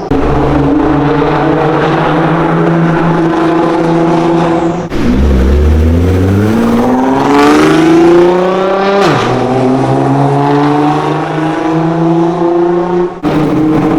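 Nissan GT-R R35's twin-turbo VR38DETT V6 running through a full decat IPE exhaust with no catalytic converters or centre resonator. It idles steadily, then about five seconds in it revs up with a rising pitch for a few seconds before settling back to idle.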